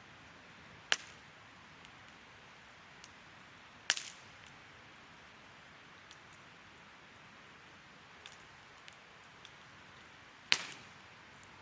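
Wood fire crackling: a soft steady hiss broken by three sharp, loud pops, the last near the end, with scattered faint ticks between them.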